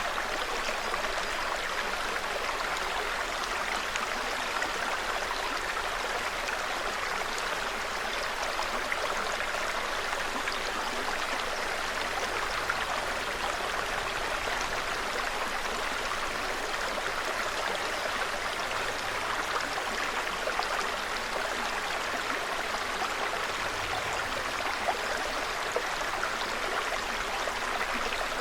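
Small forest brook flowing steadily, an even, unbroken babble of running water.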